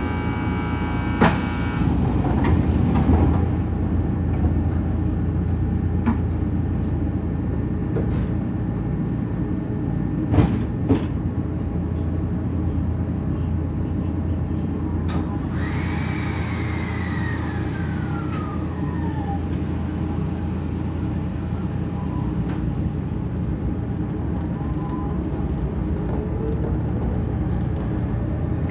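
Inside a Kotoden Shido Line electric train, a former Nagoya subway car, standing at a station and then starting to move: steady hum throughout, a few clunks in the first dozen seconds, and a tone that falls in pitch over about three seconds midway.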